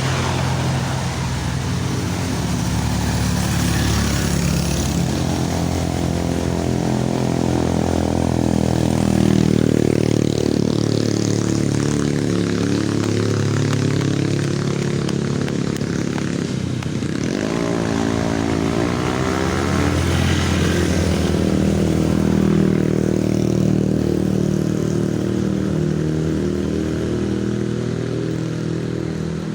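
Motor vehicle engines labouring up a steep climb in low gear, the engine note rising and falling as they rev. About seventeen seconds in, the pitch sweeps quickly down and back up.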